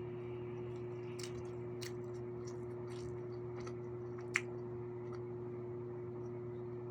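Small wet mouth clicks and smacks of someone eating, with one sharper click about four seconds in, over a steady low electrical hum.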